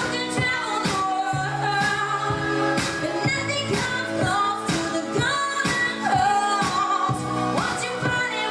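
A woman singing a pop song over a backing track with a steady beat.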